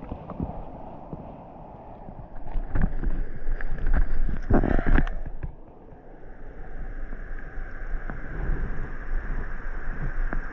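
Wind buffeting the microphone as a steady low rumble, with a cluster of knocks and rustling from handling in the middle.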